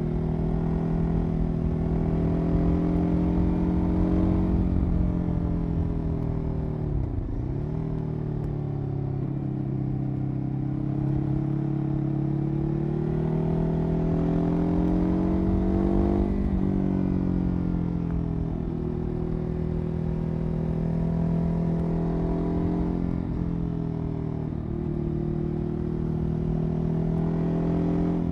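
Ducati Hyperstrada 821's L-twin engine running through its exhaust. Its pitch rises and falls over several seconds, with a sharp drop and climb back about seven seconds in.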